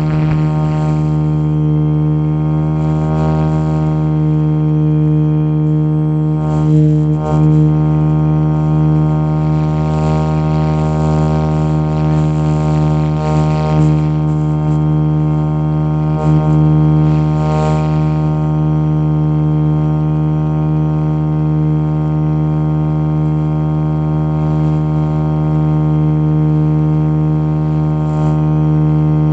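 Motion RC Jet Ranger model helicopter running with a steady, droning hum from its motor and rotors, briefly wavering a few times.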